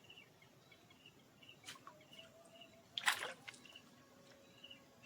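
Faint outdoor ambience with a small bird's short high chirps repeating about twice a second. A few soft knocks break in, the loudest about three seconds in.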